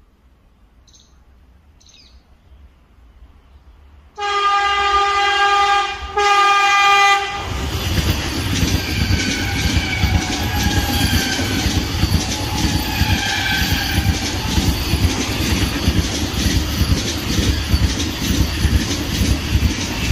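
Train 18 electric multiple-unit trainset approaching with a growing rumble, then sounding its horn in two long blasts about four seconds in. It then passes close by at speed, its wheels clattering rapidly on the rails.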